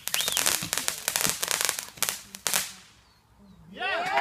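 Consumer fireworks crackling: a rapid, dense string of small pops and bangs that dies away about three seconds in. Voices rise near the end.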